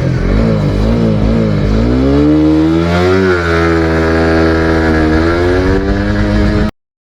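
Suzuki GSX-R motorcycle engine under hard acceleration: the pitch wavers up and down briefly, then climbs steadily, drops for a moment at a gear change about three seconds in, and rises again before the sound cuts off abruptly near the end.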